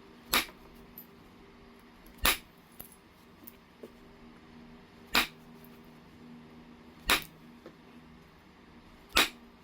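Heat-treated Oregon jasper being flintknapped: five sharp clicks of flakes coming off the stone, about two seconds apart, over a faint steady hum.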